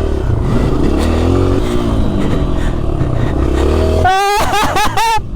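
Motocross dirt bike engine revving up and down as it is ridden around the track. About four seconds in, the low engine drone drops away and a higher, wavering note takes over for about a second.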